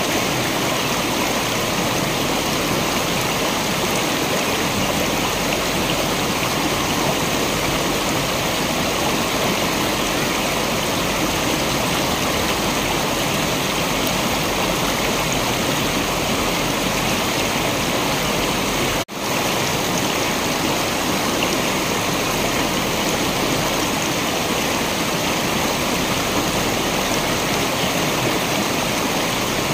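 Waterfall rushing steadily, a dense even roar of falling water, broken once by a split-second dropout about two-thirds of the way through.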